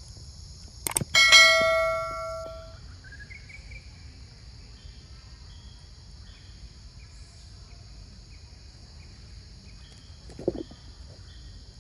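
A single metallic strike about a second in, ringing out with a bell-like tone that fades over about a second. Faint short chirps follow, and there is a brief rough sound near the end.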